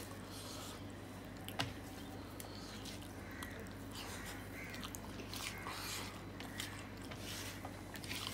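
Close chewing and mouth sounds of a man eating soft rice mixed with mashed potato by hand, with small clicks and scrapes of his fingers gathering food on a steel plate. A single sharper click comes about one and a half seconds in.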